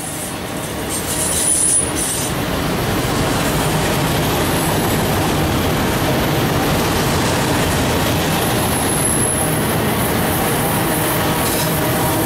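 Freight train of enclosed autorack cars rolling past close by: a steady rumble and rattle of wheels on rail that builds over the first two seconds, then holds. A brief high wheel squeal comes about a second in and again around nine seconds.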